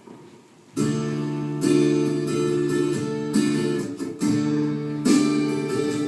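Strummed acoustic guitar chords begin about a second in, the instrumental introduction to a song, with the chord changing a few times.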